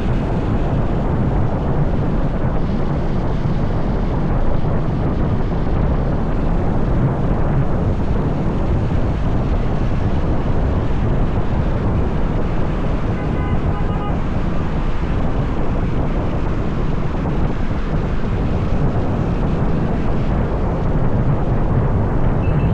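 Wind buffeting the microphone over the steady low rumble of a motorbike riding along a highway. A short string of high beeps sounds about 13 seconds in.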